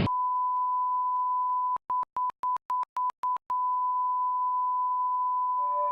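Steady, high-pitched electronic test tone, broken into a quick run of about seven short beeps about two seconds in, then held steady again. Near the end a rising, siren-like wail comes in over it.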